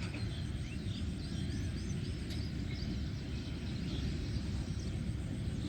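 Lakeside ambience: a steady low rumble with many faint, short, high bird chirps scattered throughout.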